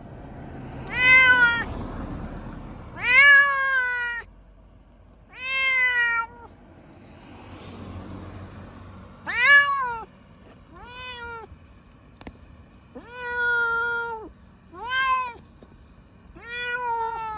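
A Munchkin cat meowing over and over, about eight long meows each rising then falling in pitch, roughly one every two seconds. It is the distressed crying of a cat on its way to the vet.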